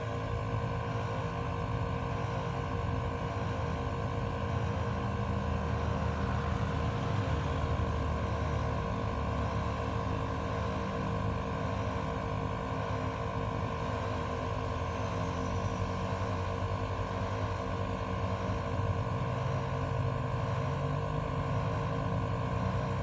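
ARB twin-motor 12-volt air compressor running steadily under load as it inflates a tire, a constant hum with fixed tones and no change in pitch.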